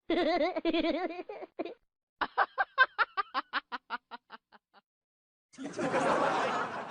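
A person laughing: first a high, wavering laugh, then a run of quick short laugh pulses, about five a second, that fade away. Near the end comes a separate hissing, noisy burst of about a second and a half.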